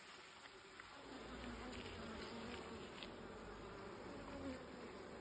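Honeybees buzzing around an open hive, with one bee's steady hum coming close from about a second in and fading near the end.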